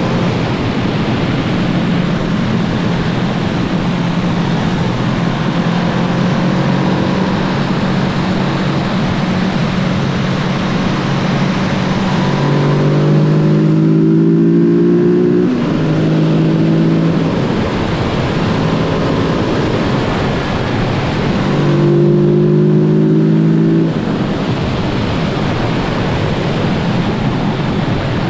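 Kawasaki Z650 parallel-twin engine running while riding, under heavy wind noise on the microphone. Twice, about halfway through and again about three quarters through, the engine gets louder as the throttle opens, with a short break in the first pull like a gear change, and the second ends abruptly as the throttle closes.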